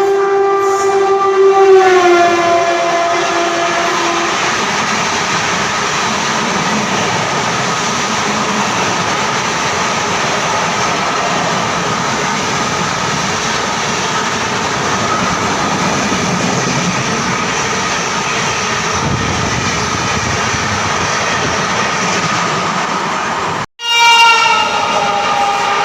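An Indian Railways locomotive horn sounds and drops in pitch as a high-speed express train passes, then the train's coaches rush past on the rails for about twenty seconds. Near the end, after an abrupt cut, another train's horn sounds and falls in pitch as it passes.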